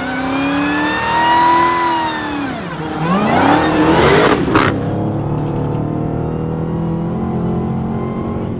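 Car engine revving hard, its pitch climbing, dropping and climbing again to a peak. A brief sharp noise comes about four and a half seconds in, and the engine then settles to a steadier, lower running note.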